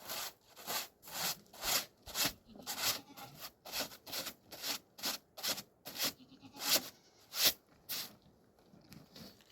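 Rhythmic scraping or rubbing strokes, about two a second, stopping about eight seconds in.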